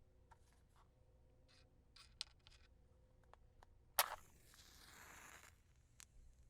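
Wooden match struck about four seconds in, a sharp scrape that flares into a hiss for about a second and a half before dying away, with scattered small clicks and taps before and after.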